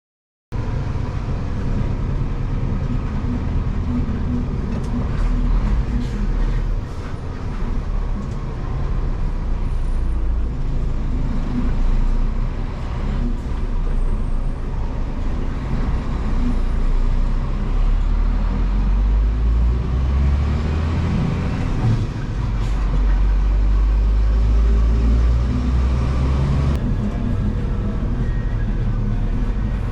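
Scania vacuum sewage truck's diesel engine running under way, with the engine note changing a few times.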